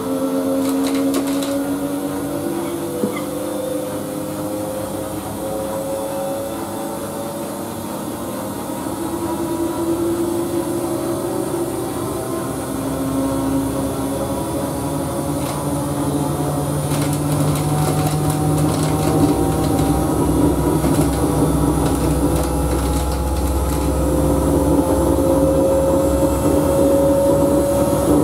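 Siemens Siwamat IQ front-loading washing machine's drum motor speeding up, a whine slowly rising in pitch over the machine's rumble, which grows louder in the second half as the drum gathers speed toward a spin.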